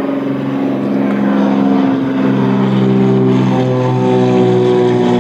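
Car engine and exhaust droning steadily under load, its pitch creeping slowly upward; a tame, not too obnoxious exhaust note.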